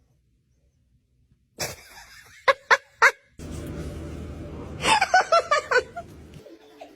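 Laughter in a run of short breathy bursts about five seconds in, after a second and a half of silence and a few brief sounds.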